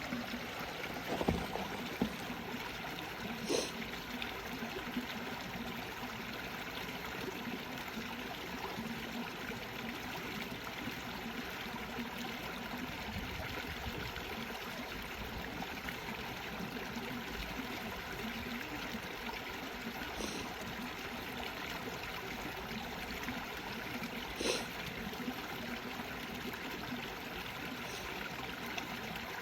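Small brook babbling and trickling steadily beneath snow cover. Now and then there is a short click or knock: two in the first couple of seconds, one near four seconds and a couple more later on.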